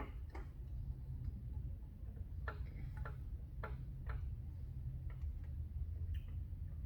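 Scattered sharp clicks and light taps, a cluster of four in the middle, from small parts and tools being handled during a pit bike carburetor and hose fitting, over a steady low hum.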